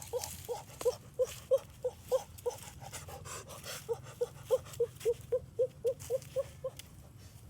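An animal giving short, repeated pitched calls, about three a second, with a break of a little over a second partway through.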